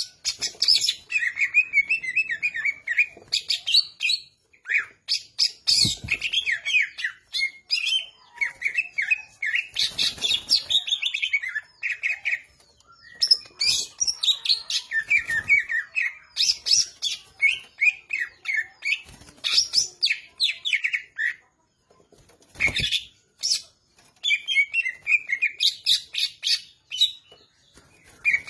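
Cucak ijo (green leafbird) singing continuously in fast, varied, chattering and warbling phrases, broken by short pauses. A few dull thumps sound under the song, about 6, 10 and 23 seconds in.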